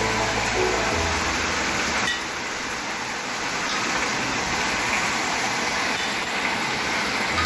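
Heavy rain pouring down in a steady hiss. Background music with a low bass line plays for about the first second, then drops away, leaving the rain alone.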